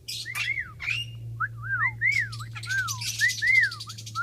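Pet birds calling: a string of about ten clear whistled notes, each rising and then falling, mixed with harsh, scratchy chattering bursts near the start and again past the middle. A steady low hum runs underneath.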